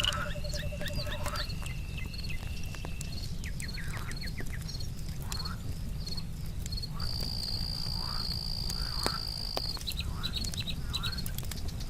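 Night ambience of crickets and frogs: a cricket chirping in short, regular pairs of high notes, a steady high insect trill from about seven to ten seconds in, and frogs calling in short falling notes. Scattered sharp crackles from a campfire and a low steady rumble sit underneath.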